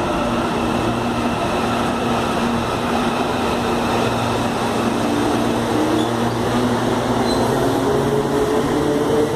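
Electric commuter train running slowly into a station platform, with a steady electric hum and running noise. Toward the end, pitched tones rise in steps as the train comes alongside.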